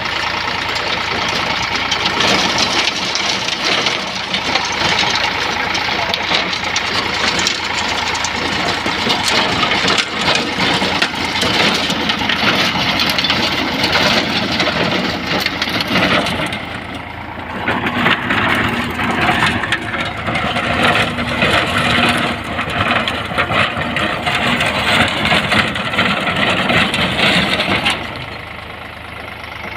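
Eicher 548 tractor's three-cylinder diesel engine running steadily with a dense clatter, easing off briefly about halfway through and again near the end.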